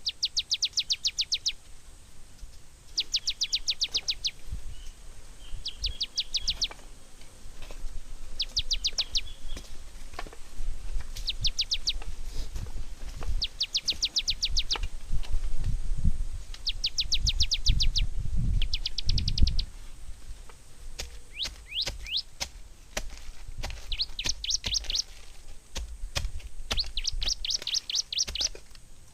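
A small bird singing the same rapid, high trill of many quick notes again and again, each phrase about a second long and repeating every two to three seconds. Scattered clicks run through it, and low thuds and rumble come in the middle.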